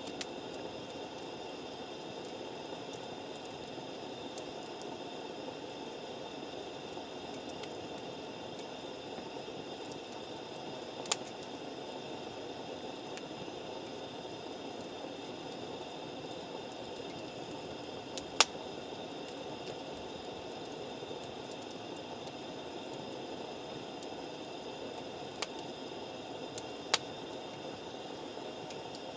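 Wood campfire burning with a steady low hiss, broken by a few sharp pops of crackling wood, the loudest about two-thirds of the way through.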